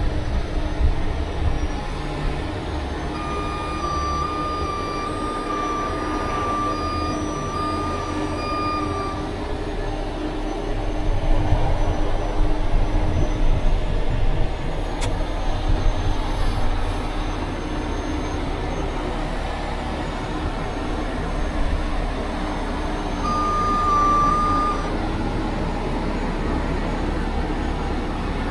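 Heavy tow truck's diesel engine running with a steady low rumble, swelling somewhat in the middle. A warning beeper sounds a run of repeated even beeps for about six seconds a few seconds in, and again briefly near the end.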